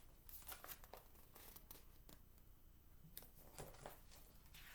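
Faint paper rustling and handling noises as a picture book's page is turned, in a series of short, soft rustles.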